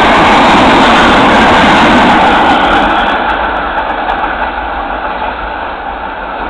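Class 460 electric multiple unit running into a station close by: a loud rushing of wheels and running gear that fades steadily from about two and a half seconds in as the train passes on and slows.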